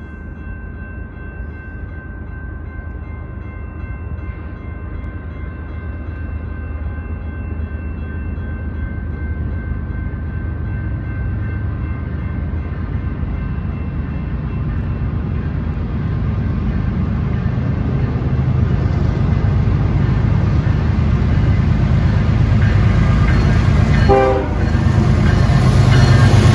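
BNSF diesel freight locomotives approaching, their low engine rumble growing steadily louder as the train nears, with the train horn sounding near the end as the lead engine arrives.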